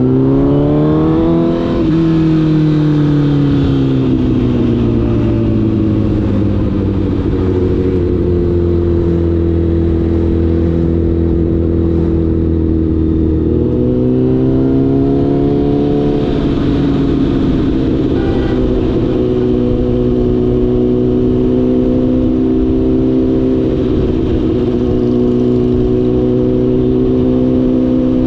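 Honda CBR1000RR's inline-four engine under way: the revs climb sharply in the first couple of seconds, ease down and hold steady, then climb again about halfway through before settling into steady cruising.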